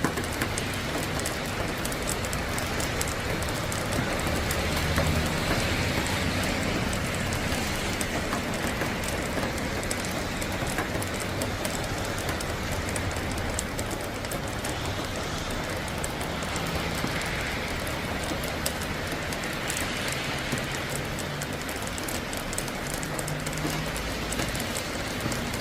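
Steady rain falling during a thunderstorm, a dense patter of drops on surfaces.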